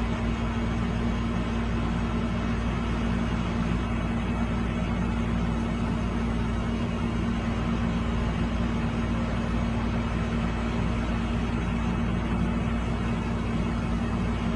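A machine running steadily with a low, unchanging hum.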